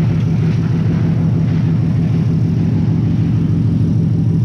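Ford Mustang GT V8 with long-tube headers and a straight-pipe exhaust idling steadily, a low even drone. It is being checked for exhaust leaks, and a small one is found at the right-side header joint.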